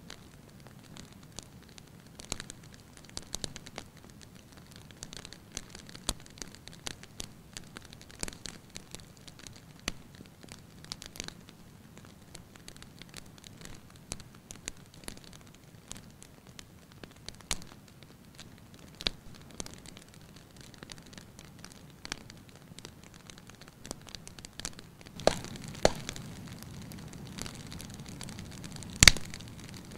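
Wood fire crackling in a fireplace: irregular sharp pops and snaps over a faint hiss. About 25 seconds in, a low rumble of flames grows, and a loud pop comes near the end.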